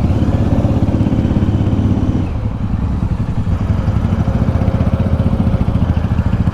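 Suzuki TU250X single-cylinder motorcycle engine running steadily while riding, with an even, rapid firing pulse that eases briefly about two seconds in.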